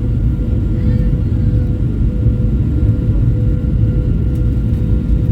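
Steady low rumble of an airliner's engines heard inside the cabin, with a faint even hum above it.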